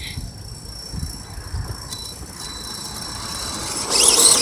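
Electric RC truck drivetrain whining at low level with a few soft low thumps, then a truck powering up near the end into a loud, high whine that wavers in pitch.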